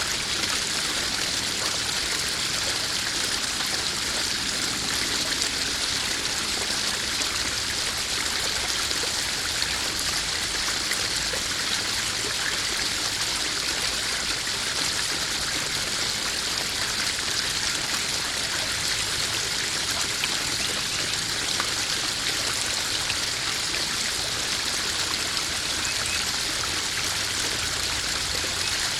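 Small garden-pond waterfall splashing into a koi pond, a steady, even rush of falling water with faint trickles.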